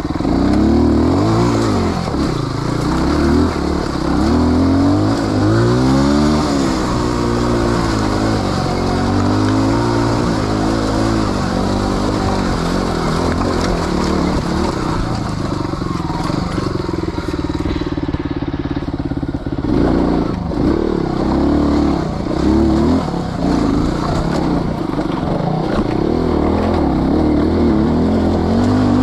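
Off-road motorcycle engine running with constantly changing throttle, its pitch rising and falling every second or two as it is revved and eased off.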